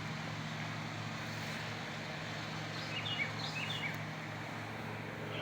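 Outdoor background of steady hiss and a low hum, with a small bird giving a quick cluster of short high chirps about three seconds in.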